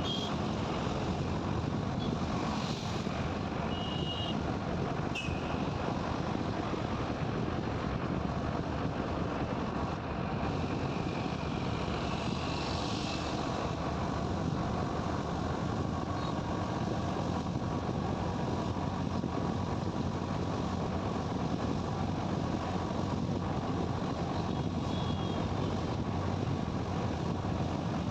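Steady rush of a motorcycle riding along a highway: road, engine and wind noise at an even level. A few short high beeps sound near the start and once near the end.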